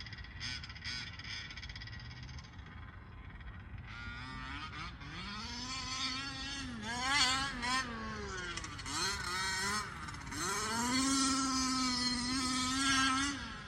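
Losi RC motorcycle's electric motor whining, rising in pitch about four seconds in and swinging up and down with the throttle, then holding a steady high whine before cutting off at the end.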